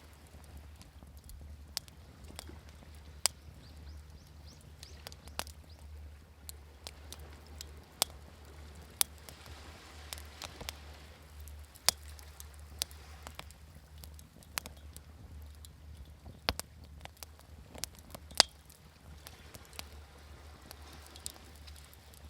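Wood fire crackling, with sharp pops at irregular intervals over a steady low rumble, and waves washing softly twice in the background.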